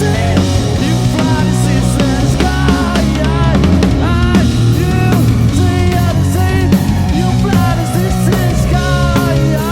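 A live rock band playing a loud grunge-style song: electric guitar lines bending in pitch over bass and steady drums.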